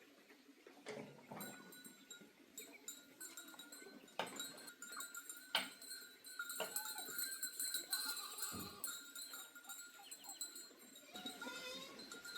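Animal calls: short, pitched calls among scattered clicks and knocks, over faint steady high-pitched tones.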